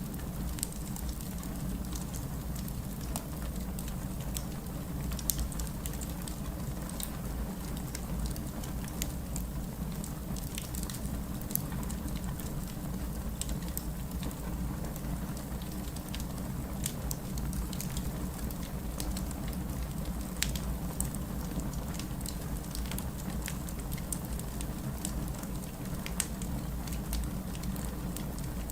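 Wood fire crackling with frequent sharp pops and snaps over a steady hiss of heavy rain falling.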